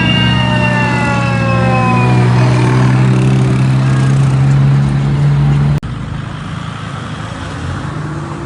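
Car engines running with a loud steady low hum, while a higher tone falls slowly in pitch over the first two seconds. About six seconds in, the sound cuts off abruptly to quieter road vehicle noise.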